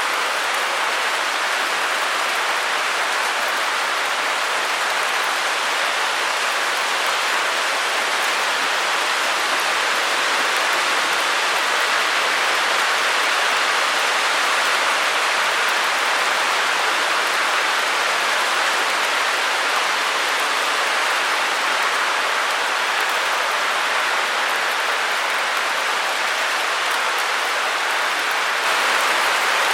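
Steady, unbroken white-noise hiss, strongest in the middle and upper range with little bass.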